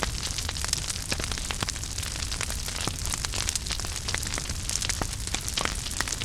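Wood fire burning in a fireplace: a steady low rumble and hiss with frequent sharp crackles and pops, many each second.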